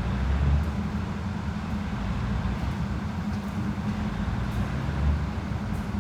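Diesel train engine running steadily, a continuous low rumble with a steady hum.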